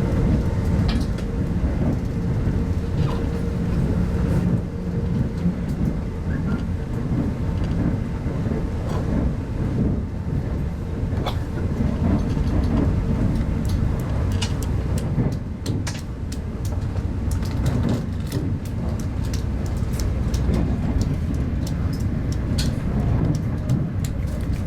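Ride noise inside a 25T-type passenger coach running along the line: a steady low rumble of wheels on rail, with scattered sharp clicks and rattles that come more often in the second half.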